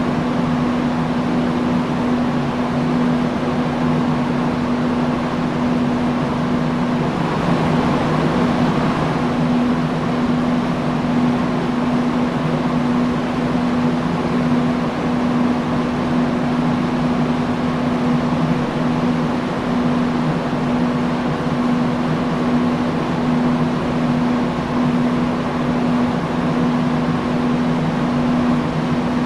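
Industrial fan running steadily: a constant rush of air with a steady low hum under it.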